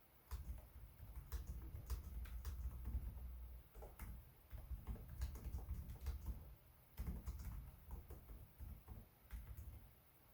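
Typing on a Lenovo Legion 5 Pro laptop keyboard: runs of key clicks over soft thuds of the keys bottoming out, with two short pauses, stopping shortly before the end.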